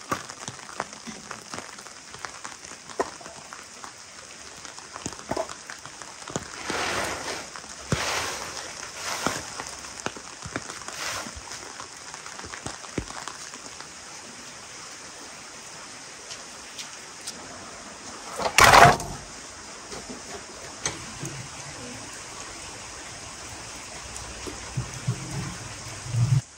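Steady rain falling, with the wooden knocks of split firewood logs being lifted off a stack and handled. A single louder burst of noise comes about two-thirds through, and there are dull wooden thuds near the end as logs go into a sheet-metal wood stove.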